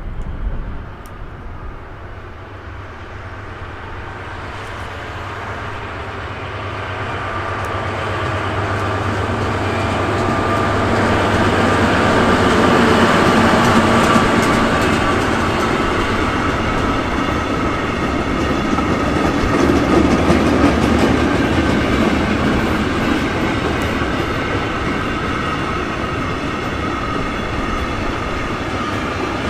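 A long freight train passing on the line: it swells in over the first dozen seconds, loudest as the locomotive goes by with its low hum, then the wagons' wheels keep rolling past on the rails.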